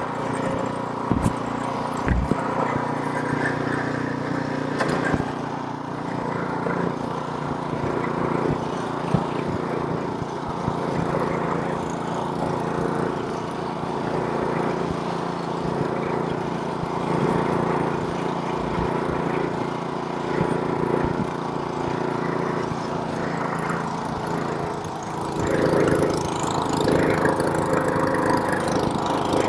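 Snowblower's small gas engine running steadily while clearing snow, with a few sharp clicks about a second or two in, and getting louder a few seconds before the end.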